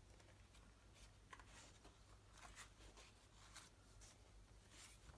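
Near silence with a few faint, scattered rustles and soft clicks of paper pages being handled and turned.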